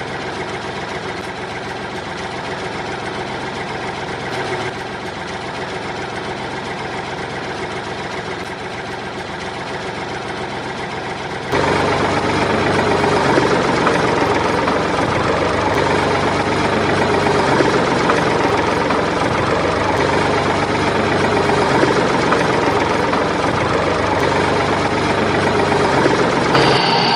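A motor vehicle engine running steadily at a constant pitch. It jumps abruptly louder and fuller about eleven seconds in.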